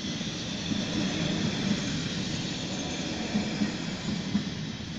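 Locomotive-hauled electric passenger train passing over a level crossing: a steady rumble with irregular clacks and thumps as the wheels run over the track.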